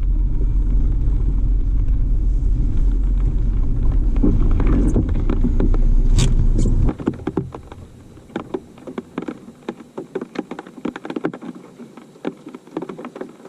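Car driving, heard from inside, with a steady low road and engine rumble that stops abruptly about seven seconds in. After that, only scattered light taps and clicks remain.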